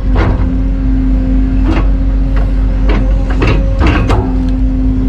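Excavator's diesel engine running steadily with a constant hydraulic whine, while about six sharp metallic clanks ring out at irregular intervals from the machine working.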